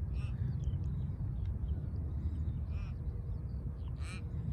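A few short bird calls, the clearest near the end, with fainter chirps, over a steady low rumble.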